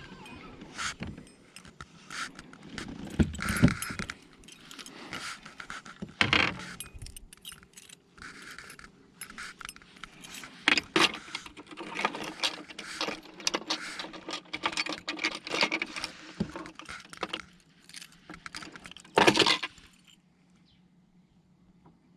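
Irregular clinking, tapping and rattling of small hard, metallic objects being handled, with louder knocks about 3, 6 and 19 seconds in. It stops about 20 seconds in.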